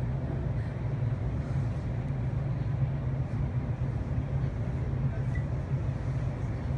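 Steady low rumble and hum of a train, heard from inside a Ueno–Tokyo Line commuter car.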